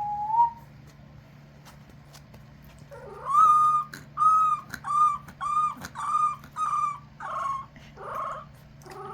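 A held whistled note ends right at the start. After a pause of a couple of seconds, puppies give a run of about seven short, high howling whines, each about half a second long. Two fainter, lower ones follow near the end.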